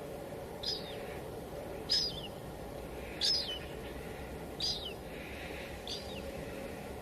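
A bird calling five times, a short high call that drops away at the end, about once every second and a quarter, over the steady hiss of light rain.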